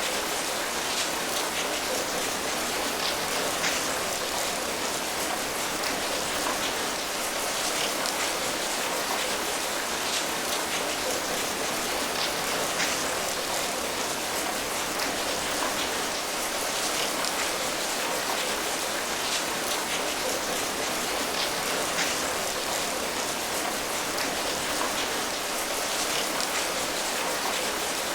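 Steady rain falling, an even hiss with many small drop patters and ticks.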